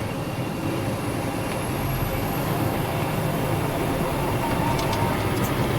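Snowplow truck's engine running steadily under load, heard from inside the cab, with a continuous dense rumble as it pushes through deep snow drifts.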